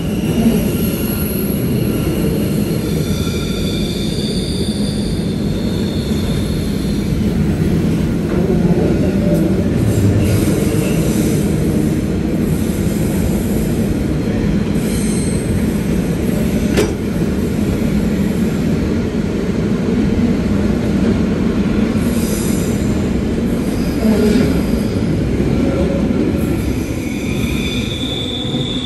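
Passenger train running on the rails with a steady low rumble. High-pitched wheel squeals come and go over it, strongest near the start and again near the end, with a couple of sharp clicks from the wheels on the track.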